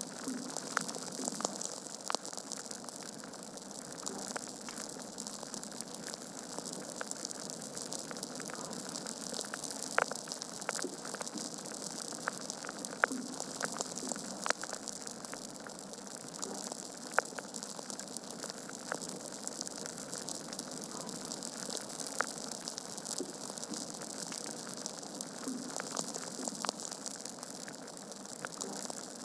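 Logs burning in a fireplace: a steady hiss of flame with frequent sharp crackles and pops, a handful of them louder than the rest.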